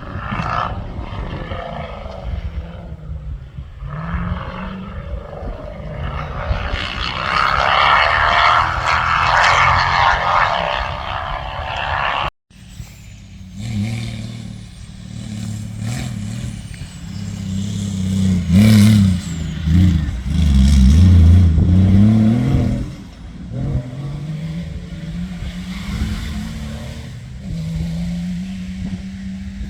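Competition safari off-road racing vehicle's engine running hard over rough ground, its pitch rising and falling as it revs and drops back, with the hardest revving about two-thirds of the way through. In the first third a loud rushing noise rides over the engine, and the sound breaks off for an instant near the middle.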